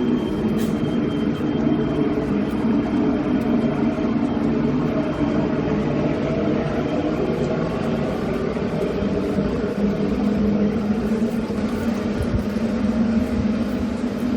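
A steady mechanical drone, like an engine or machinery running, with a constant low hum and a rumbling noise underneath that holds level throughout.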